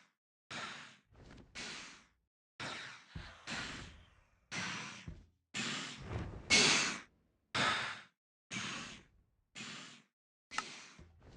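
A person breathing hard close to the microphone: short breathy puffs, about one a second.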